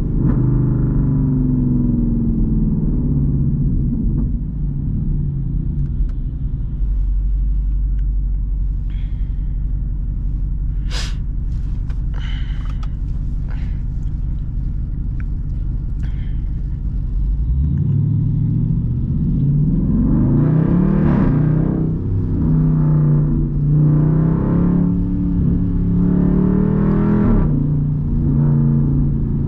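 Straight-piped Jeep Grand Cherokee SRT V8 exhaust while driving. It settles into a low steady drone at light throttle, with a few sharp clicks near the middle. About halfway through it accelerates hard, the pitch climbing and dropping again as it shifts through the gears.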